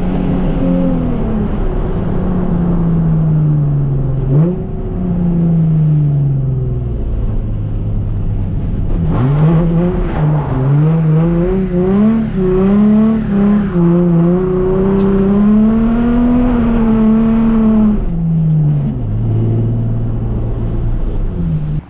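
Nissan 350Z's VQ-series V6 engine revving hard while drifting. The engine note jumps up sharply twice, about four and nine seconds in, then holds high with quick wobbles as the throttle is worked, and falls back to a lower steady note near the end.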